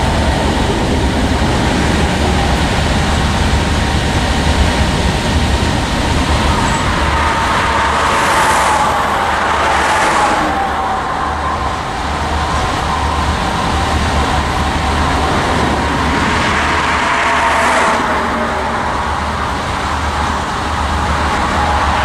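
Freight cars of a Union Pacific manifest train rolling past: a steady rumble of steel wheels on rail, with a faint wavering wheel squeal and a few brief hissy swells.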